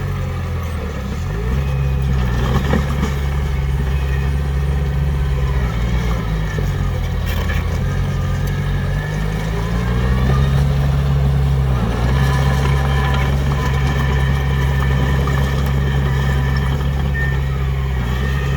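Heavy diesel engine of earthmoving machinery running under load. Its pitch dips and recovers a few times as the load changes: briefly about a second in, a slow rise in the middle, and a sharp dip about two-thirds of the way through.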